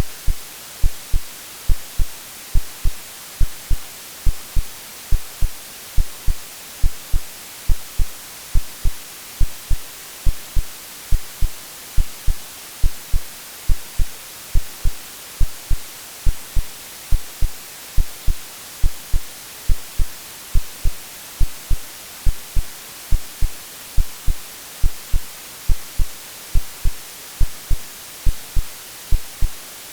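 Synthetic heartbeat, a steady double-thump lub-dub at roughly one beat a second, layered over an even white-noise hiss, as a womb-like sleep sound for babies.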